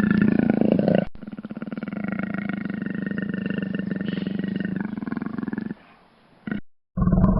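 Deep animal growls in two back-to-back clips: a short one cut off about a second in, then a long, continuous pulsing growl that stops near the end.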